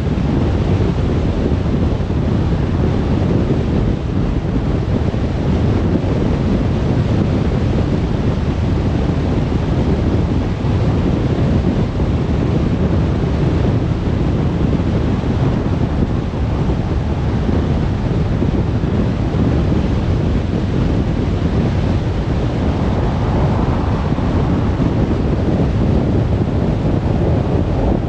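A car driving at steady speed: constant road and wind noise, with most of the sound low down.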